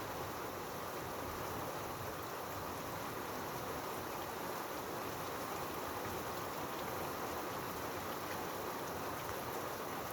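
Steady rain falling, an even hiss of water that holds at one level throughout.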